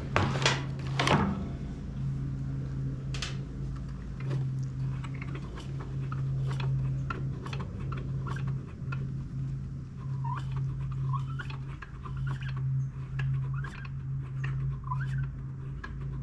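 Light clicks, knocks and short squeaks as the Echo PB-265L backpack blower is handled and its two-stroke engine is turned over slowly by hand, over a steady low hum.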